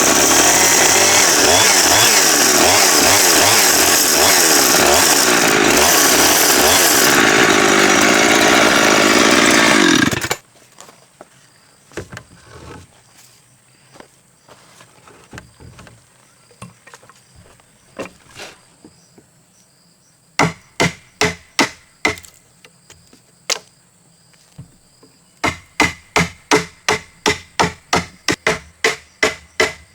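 Chainsaw cutting timber, its pitch wavering as it works, stopping suddenly about ten seconds in. After a quiet stretch with a few scattered knocks, a run of sharp strikes on wood about two a second, then a faster run of about four a second near the end.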